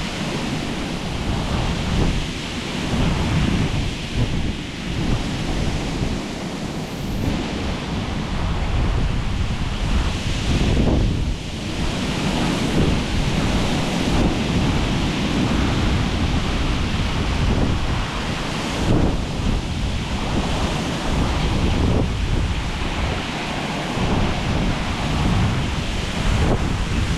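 Gusts of winter wind buffeting the microphone in a low, fluctuating rumble, over the steady rush of cold water and the rustle of dry reeds.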